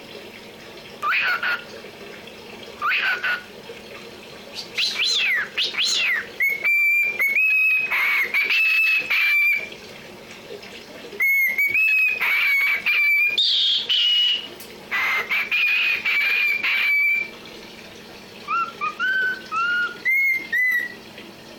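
Cockatiel whistling in short phrases of gliding and held notes with pauses between, ending in a run of short rising chirps.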